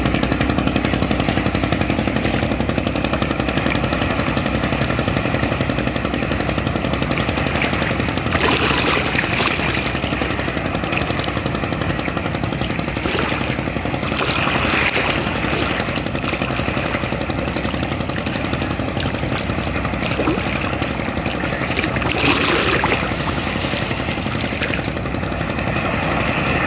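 Ferry boat engine running steadily with a fast, even chugging beat, over rushing water, with brief noisier swells about 8, 14 and 22 seconds in.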